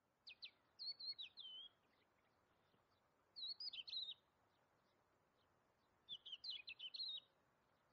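A small bird singing three short bursts of quick, high chirps and trills, with a faint outdoor hiss between them.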